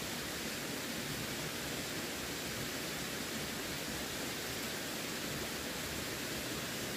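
Running water: a steady, even rush with no breaks or distinct splashes.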